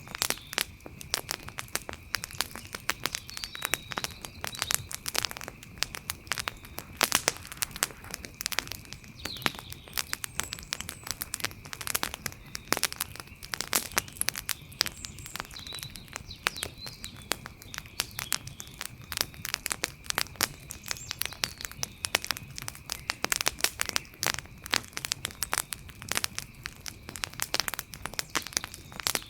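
Wood campfire crackling: a dense, irregular stream of small pops and snaps, some sharper and louder than the rest, with a steady high tone running underneath.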